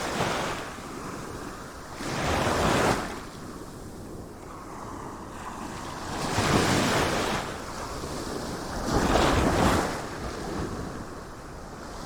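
Sea waves breaking and washing in: three louder surges about every three seconds over a steady hiss of surf, with some wind.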